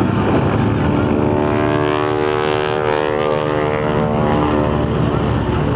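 Propeller airplane flying past: a pitched engine-and-propeller drone builds for a couple of seconds and fades again, over a steady low rumble.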